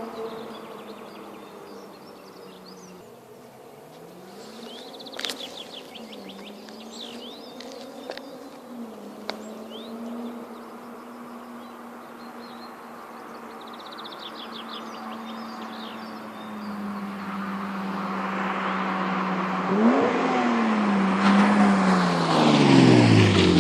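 BMW M20 straight-six with a custom exhaust, running steadily at a distance while birds chirp. From about two-thirds in it grows louder as the car approaches, and near the end it revs up and down as it comes close.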